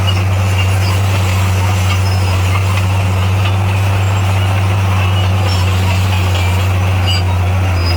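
A D58A bulldozer's diesel engine running at a steady, even drone throughout, with a hiss of machine noise above it.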